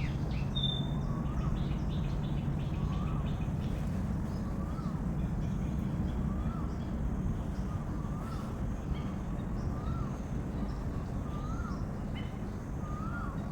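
A bird calling over and over, a short rising-and-falling note about once a second, over a steady low background rumble. Near the start there are a couple of brief high whistles.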